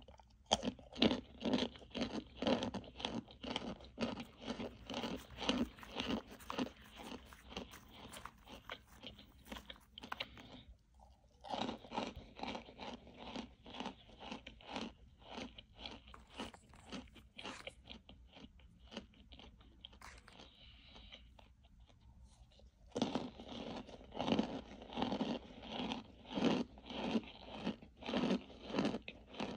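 Close-up crunching and chewing of a reformed cornstarch brick, in steady strokes about two a second. There is a brief pause about ten seconds in, the chewing goes softer for a few seconds, and louder crunching resumes about 23 seconds in.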